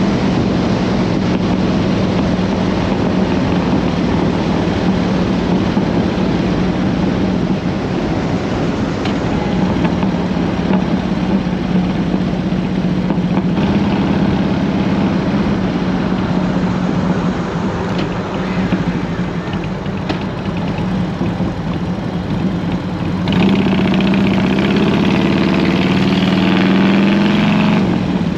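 Harley-Davidson Road King V-twin engine running under way through fishtail mufflers, with steady wind rush. About three quarters of the way in the engine gets louder and its pitch climbs in steps as the rider opens the throttle.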